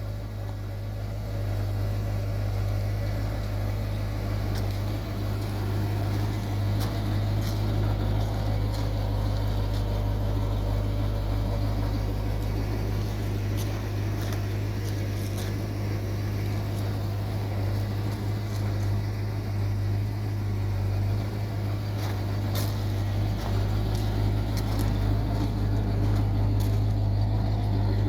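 1952 Chevrolet pickup's straight-six engine running steadily just after its first start-up.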